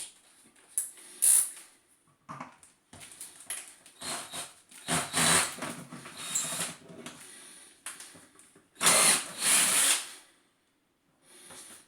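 Hammer drill, its hammer action engaged, run in several short bursts while boring small breather holes in a plastic bucket.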